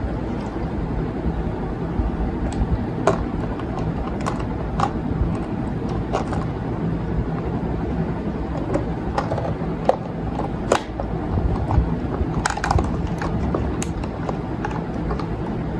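Light clicks and knocks at irregular intervals as makeup items and organizer parts are handled, over a steady low background rumble and hum.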